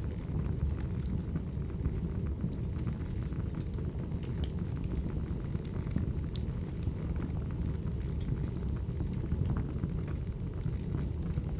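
Wood fire burning: a steady low roar of flames with scattered sharp crackles and pops of burning logs.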